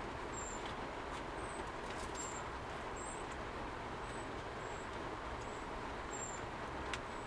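Steady hiss of typhoon rain around a camper van, with short high chirps repeating about every half second and a single sharp click near the end.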